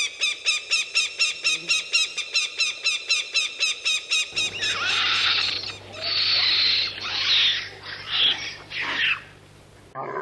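A bird of prey gives a fast run of shrill, evenly repeated calls, about five a second, for the first four seconds. After that a monkey gives five or six harsh screeches over a steady low hum.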